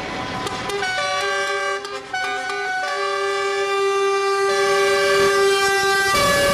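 Air horns on convoy trucks blowing long, steady chord-like blasts. Several horns overlap and take over from one another as the pitch steps change every second or so.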